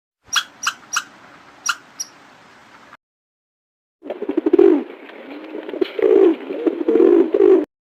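A bird giving about five short, sharp chirps, then, after a break, a pigeon or dove cooing in low, wavering, repeated calls.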